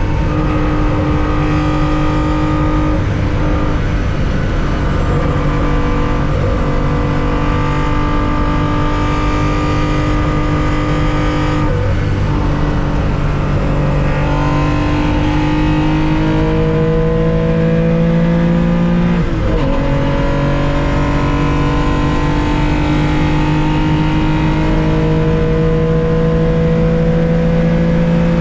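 Air-cooled flat-six engine of a 1965 Porsche 911 2.0 heard from the cockpit, pulling hard with its pitch climbing slowly, with brief breaks for gear changes about twelve seconds in and again about nineteen seconds in.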